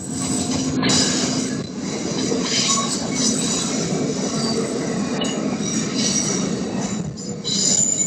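A train rolling past with a steady rumble of wheels on rail and a thin, high-pitched wheel squeal that fades in and out.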